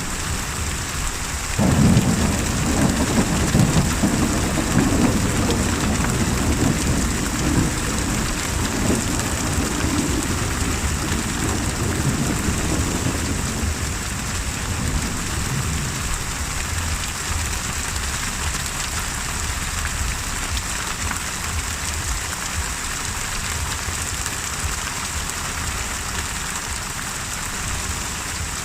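Steady heavy rain, with a clap of thunder breaking suddenly about two seconds in and rolling on as a low rumble that fades out over the next dozen seconds.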